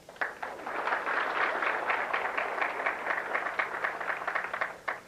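Audience applauding: a dense patter of many hands clapping that starts just after a name is called and stops shortly before the next one.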